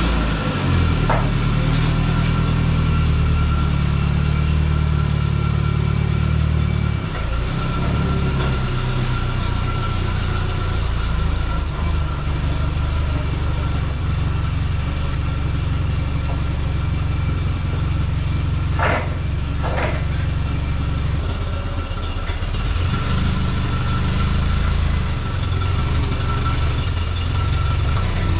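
Heavy diesel engine running steadily just after start-up, with a thin steady whine over it. Two brief sharp squeaks sound about two-thirds of the way through, and the engine note dips briefly a couple of times.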